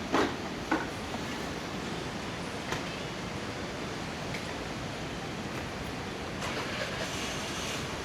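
Steady rushing noise of flowing river water and passing traffic, with two short sharp knocks in the first second.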